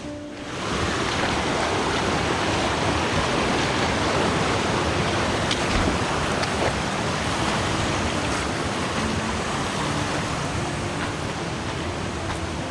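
Steady rushing of a river's flowing water, an even noise that comes up just after a brief dip at the start.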